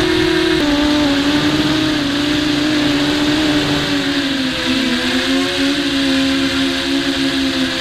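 Brushless motors and 5030 props of a WarpQuad 200 racing quadcopter heard from on board: a loud, steady whine whose pitch drops slightly about half a second in and dips briefly around the middle as the throttle changes.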